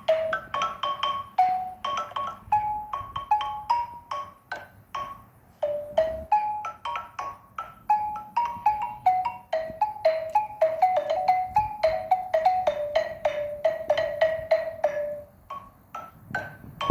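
Xylophone played with mallets: a quick melody of single struck, ringing notes, turning about the middle into fast repeated strikes on one low note, then a short pause near the end before the notes resume.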